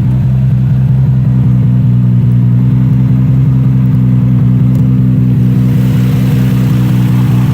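Toyota Supra race car's engine idling steadily and loudly through its tore-up VeilSide exhaust.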